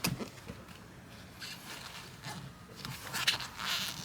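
Light handling noises: a few scattered clicks and knocks, with a brief rustling scrape about three seconds in, as parts of a truck's interior are worked loose.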